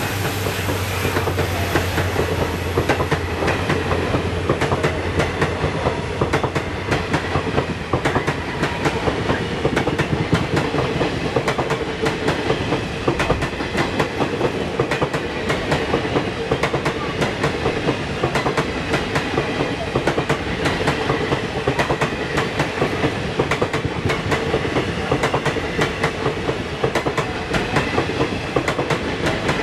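Coaches of a crossing passenger train passing close alongside at speed, heard from a moving train: the wheels clatter over the rail joints in a fast, dense, unbroken run of clicks over a steady rush of noise. A low hum, likely from the diesel locomotive that has just gone by, fades out in the first couple of seconds.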